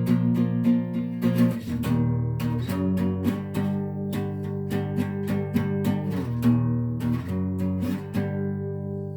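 Acoustic guitar strumming chords in a steady rhythm, changing chords several times, with the last chord left to ring and fade near the end.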